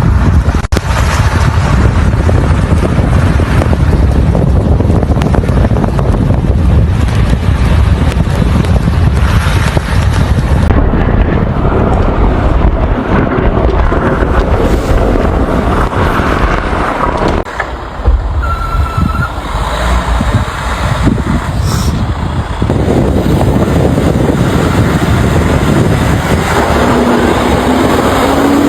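Strong wind buffeting the microphone in a snowstorm, with road traffic underneath; the mix of noise changes abruptly about 11 and 17 seconds in.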